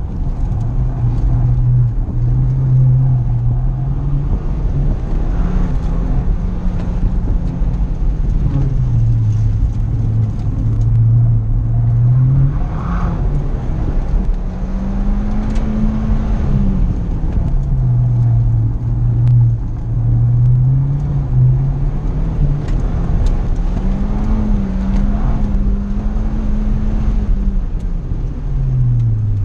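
Ford Fiesta ST's turbocharged 1.6-litre four-cylinder engine, heard from inside the cabin on an autocross run: it pulls hard and lifts off again and again, its pitch rising and falling, over steady road and wind rumble. Near the end it winds down as the car slows.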